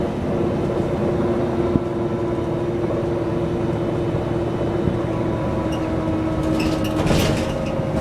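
Mercedes-Benz O405 N² city bus's diesel engine and Voith automatic drivetrain running under way, heard inside the passenger cabin, with a steady held whine. Short high-pitched rattles and clicks come in near the end.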